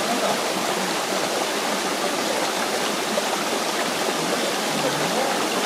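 Mountain valley stream: water rushing steadily.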